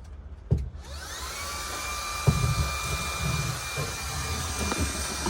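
Vacuum cleaner motor spinning up about a second in with a rising whine, then running steadily with a high whistle and a few knocks. It is cleaning up wire-brushed rust dust from the cab floor before rust remover goes on.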